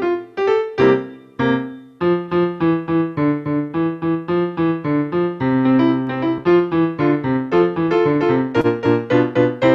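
Solo piano music: a postlude of notes struck in a steady stream, several a second, over held lower notes.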